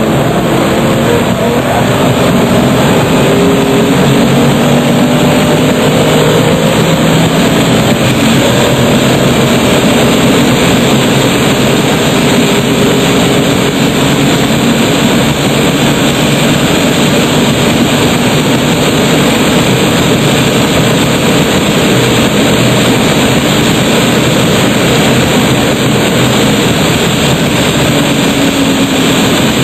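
RUF CTR Yellow Bird's twin-turbo flat-six running hard at speed, its note rising and falling, under a heavy, steady rush of wind and road noise.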